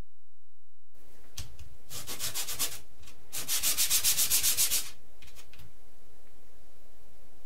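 Hand sanding of a part, in quick back-and-forth strokes. There is a short run about two seconds in, then a longer, louder run of about six strokes a second, then a few faint strokes.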